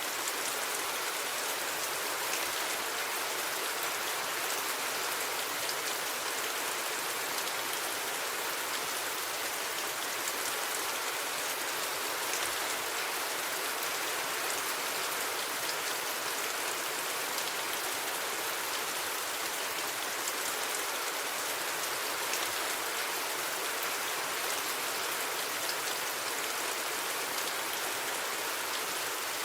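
Steady rain falling: an even hiss with scattered drops ticking, and no thunder.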